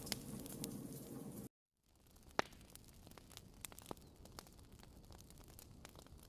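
Wood fire crackling in a fireplace, with scattered sharp pops. The sound cuts out for a moment about a second and a half in and comes back quieter.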